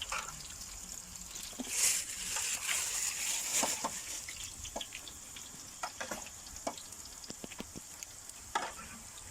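Potatoes frying in a pan of hot oil: a steady sizzle with scattered sharp pops and crackles, swelling louder about two seconds in.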